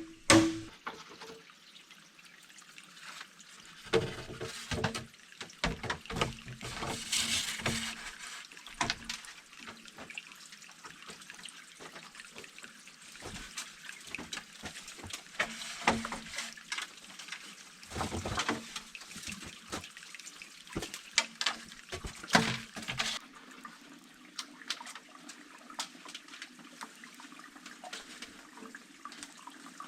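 Water splashing and trickling, with many irregular splashes and knocks; these stop about 23 seconds in and leave a steadier trickle.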